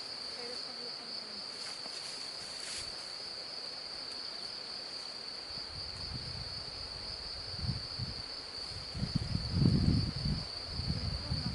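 A steady, high-pitched insect trill like crickets, unbroken throughout. From about halfway on, low rumbling noise comes and goes, loudest near the end.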